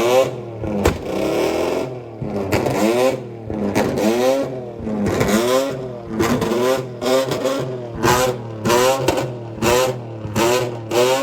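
A car engine revved over and over in quick blips, its pitch rising and falling more than a dozen times, the blips coming faster toward the end. A steady low engine hum runs underneath.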